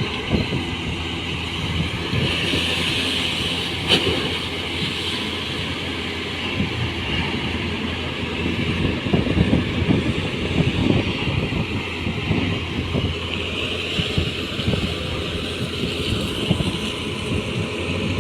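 Tugboat engine running steadily with a low drone, while wind buffets the microphone; a single sharp click about four seconds in.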